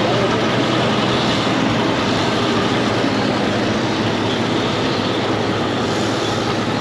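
Six-cylinder Continental gasoline engine of a 1945 Oliver Cletrac AG6 crawler tractor running steadily and smoothly at low speed.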